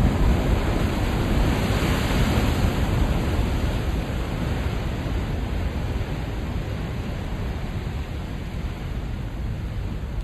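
Ocean waves breaking and washing in at high tide: a steady rush of surf that swells about two seconds in, then slowly eases off.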